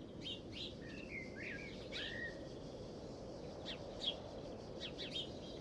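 Small birds chirping and calling in short, quick notes, several at a time, over a steady low background hiss of outdoor ambience.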